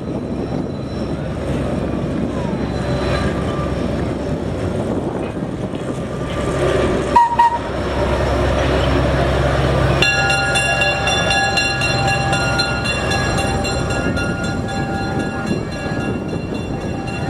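Train running on the track with a steady low rumble and a sharp knock about seven seconds in. About ten seconds in, a train whistle starts suddenly and sounds as a held, many-toned note to the end.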